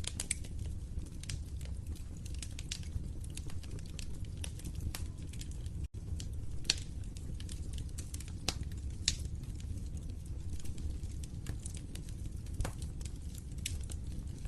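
Wood fire crackling in a fireplace: irregular sharp pops and snaps over a steady low rumble of the flames, with a split-second gap in the sound about six seconds in.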